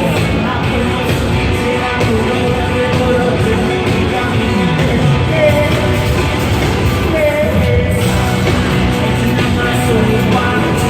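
Live rock-style music played loud over a concert sound system, with a voice singing over the band.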